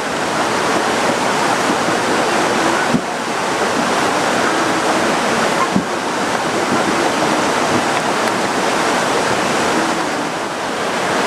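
Heavy rain pouring in a steady, loud hiss, with a couple of short knocks around three and six seconds in.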